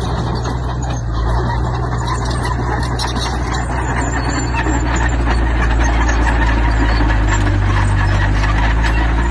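Heavy diesel earthmoving machinery working stone: a deep engine note runs steadily, with rough clattering noise over it that grows fuller about three to four seconds in.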